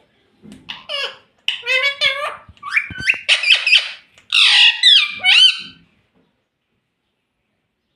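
Pet ringneck parrot giving a run of loud, high-pitched squawks and chattering calls, which stop about six seconds in.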